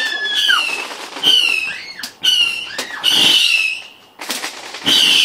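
Fireworks going off: a run of short, shrill whistles, each lasting about half a second and falling slightly in pitch, repeating about once a second, with a few sharp cracks among them.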